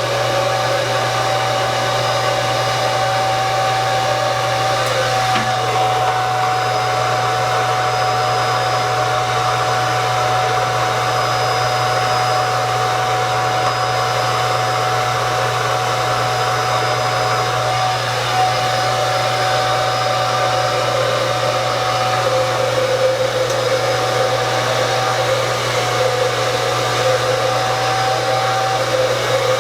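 Handheld hair dryer running steadily while blow-drying hair: a constant hum and rush of air with a steady high whine, the airflow tone shifting a little as the dryer is moved about.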